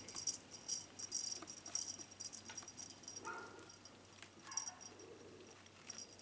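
Small bell jingling in short shakes while a pet cat plays, strongest through the first two seconds and again near the end, fainter in between.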